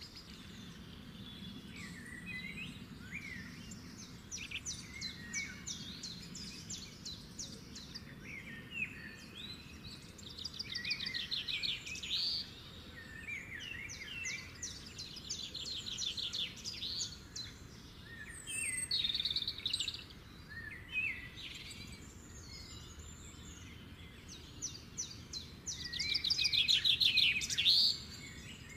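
Birds chirping, several short calls and rapid trills overlapping, with the loudest fast trill near the end.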